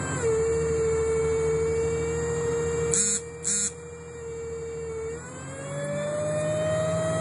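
Loud, steady single-pitch whine from a bus heard from inside, over the low rumble of the bus. The whine dips slightly in pitch at the start, holds, then rises from about five seconds in. Two short high beeps come about three seconds in.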